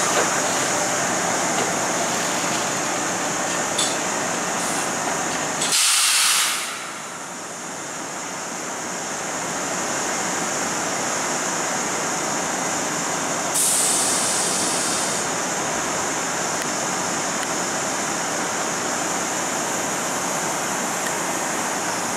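Kintetsu electric trains running through a station, with two short bursts of compressed-air hiss from a train, about six seconds in and again about fourteen seconds in. The low running rumble falls away just after the first hiss.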